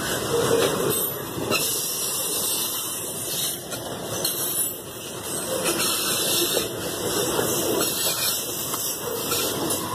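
Freight train of loaded soybean wagons rolling past close by: a steady rush of steel wheels on the rails, with repeated clicks and knocks as the wagons go over the track.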